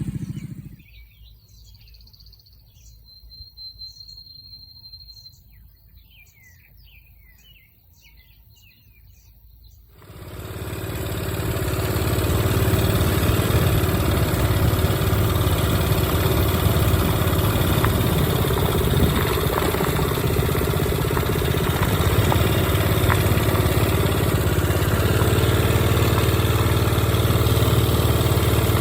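Birds chirping over a quiet background, then about ten seconds in a small minibike engine cuts in and runs steadily and loudly at an even speed.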